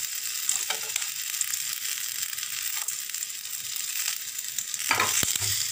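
Ridge gourd peels sizzling as they sauté in a frying pan, with a steady hiss. A steel spatula stirs them, scraping and knocking against the pan a few times, most around the end.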